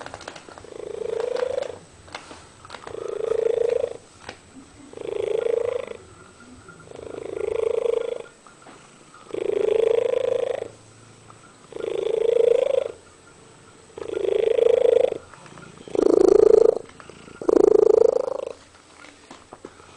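Domestic cat 'singing': a run of nine drawn-out meows, each a second or so long and rising slightly in pitch, coming about every two seconds. The last two are louder and shorter.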